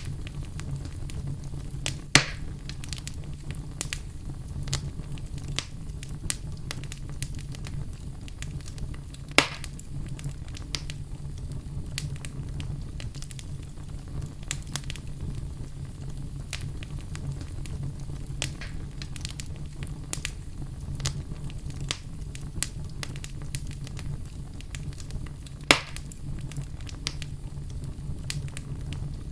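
Wood fire in a fireplace crackling, with constant small snaps and three louder pops: about two seconds in, about nine seconds in, and near the end. Under them runs a steady low hum.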